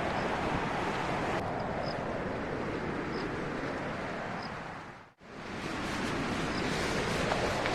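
Strong wind blowing steadily, a dense rushing noise. It drops out briefly about five seconds in and picks up again.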